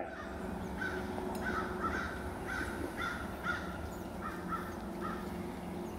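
A bird calling: a string of short calls, many in pairs, repeated over several seconds.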